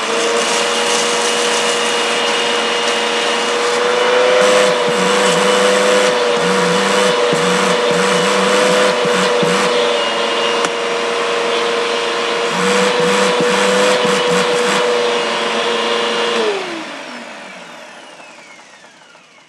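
Bissell upright vacuum cleaner running at full suction through its bare hose, with bursts of crackling as kitty litter is drawn up the hose. It is switched off near the end, its motor whine dropping in pitch and fading as it spins down.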